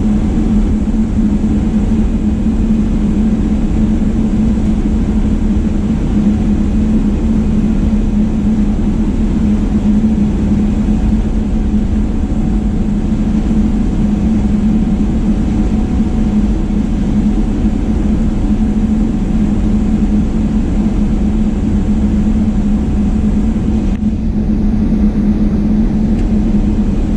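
Jet airliner cabin noise: a steady, even drone of the engines and airflow, heard from inside the passenger cabin.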